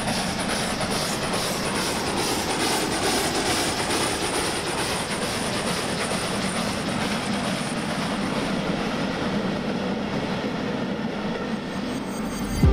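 Train running along the rails: a steady rumble with a quick, regular clacking rhythm.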